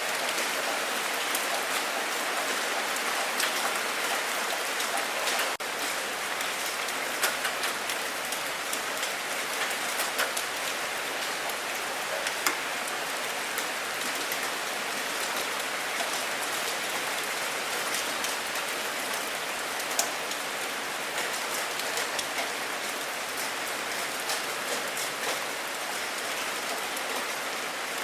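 Steady rainfall, a continuous wash of rain with many individual drops landing as sharp ticks.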